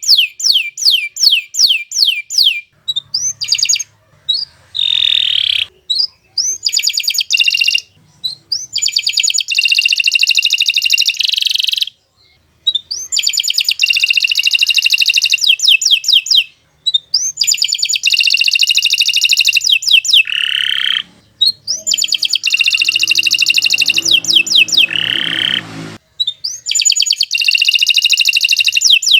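Domestic canary singing long, fast rolling trills: phrases of rapidly repeated high notes lasting several seconds, broken by short pauses.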